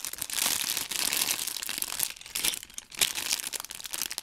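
Crinkling and rustling of plastic parts bags and packaging being handled, an irregular crackle with short pauses.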